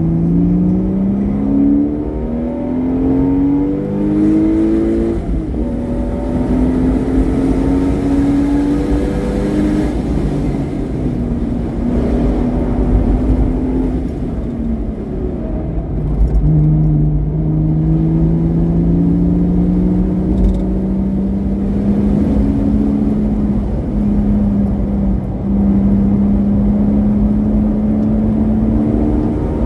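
Porsche Boxster S flat-six with a modified exhaust, driven hard on track. The engine note climbs and drops several times in the first half as the revs rise and fall, then climbs slowly and steadily through most of the second half.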